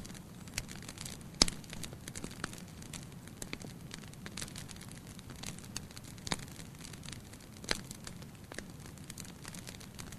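Wood fire in a fireplace crackling steadily, with scattered sharp pops; the loudest pop comes about a second and a half in, with two more in the second half.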